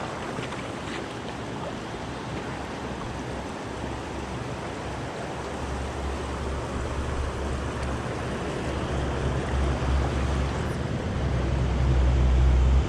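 Creek water rushing steadily, with a low wind rumble on the microphone building from about halfway in.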